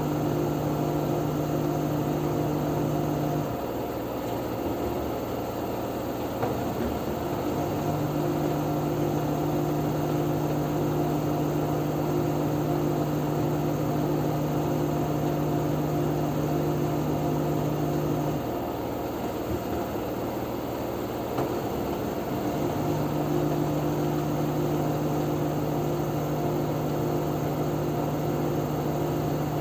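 LG F10B9LD front-loading washing machine in its spin cycle at up to 1000 rpm: a steady motor and drum hum with a clear low tone, which drops back and wavers briefly twice, around 4 and 19 seconds in.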